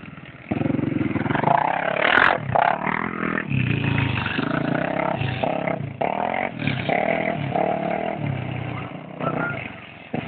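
Motorcycle engine running and revving up and down as the bike is ridden, with a sharp click about two seconds in. The recording is thin, as from a phone.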